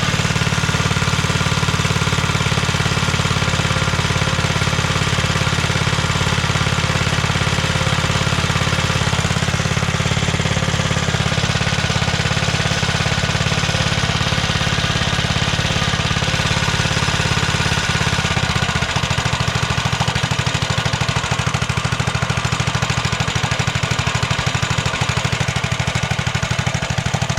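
Single-cylinder 212cc four-stroke minibike engine (212 Ghost) running steadily with a fast even chugging, its note shifting slightly about two-thirds of the way through. The carburetor is being tuned because the engine bogs and stutters under throttle.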